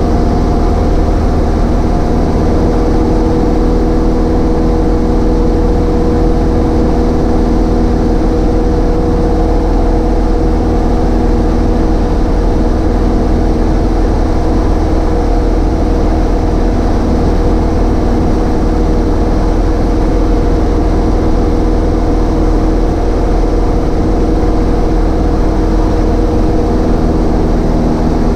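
Cessna 152's four-cylinder Lycoming O-235 piston engine and propeller running steadily.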